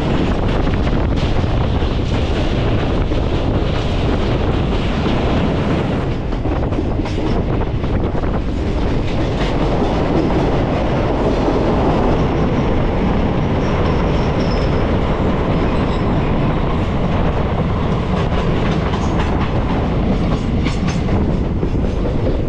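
Passenger train running at speed, its coach wheels clattering steadily over the rail joints. Around the middle the train runs through a tunnel.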